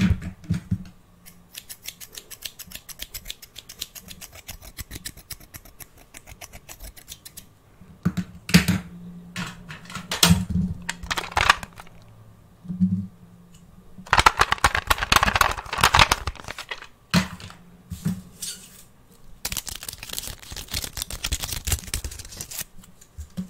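Fast ASMR tapping on objects close to the microphone: long runs of rapid clicks broken by a few louder knocks, with denser, scratchier runs of taps in the middle and near the end.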